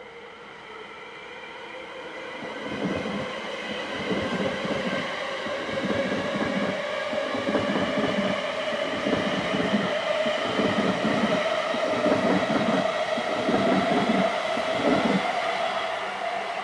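A British Rail Class 350 Desiro electric multiple unit passing close by. Its traction motors whine, rising slightly in pitch, and the wheels thump over the rail joints about once a second. The sound grows louder as the train draws level and fades a little near the end.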